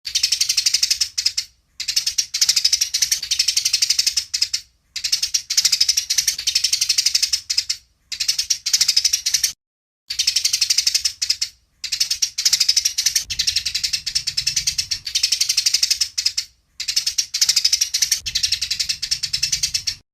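Eurasian tree sparrows chattering in a dense, rapid run of high chirps, a ratchet-like fighting chatter. It comes in about seven bursts broken by brief silent gaps.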